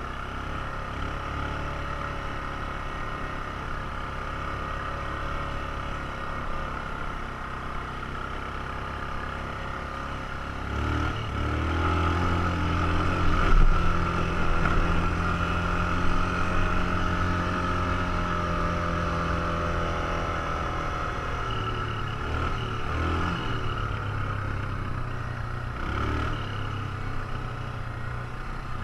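ATV engine running under way, its pitch rising with more throttle about a third of the way in and easing off near the end, with a couple of knocks from bumps along the way.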